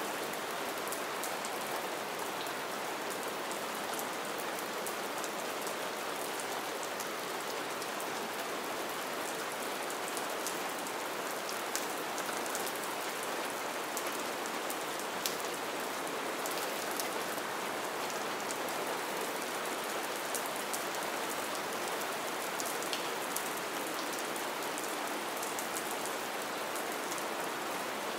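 Light rain falling steadily, an even hiss of drops on surfaces, with a few individual drops ticking out sharply now and then.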